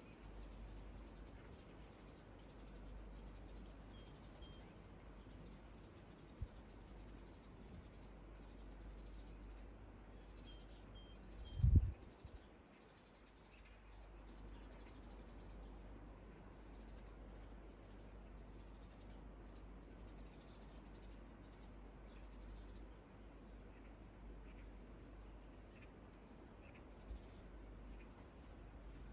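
Faint, steady high-pitched trilling of crickets, with a few soft, short bird chirps. A dull low thump comes a little before the middle.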